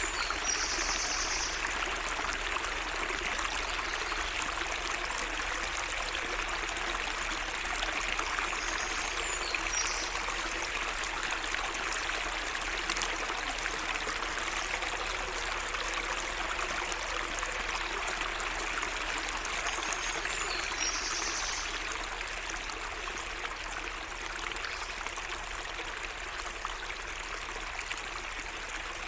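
Small garden stream running steadily, water trickling and splashing over stones. A bird gives a brief high call three times over it.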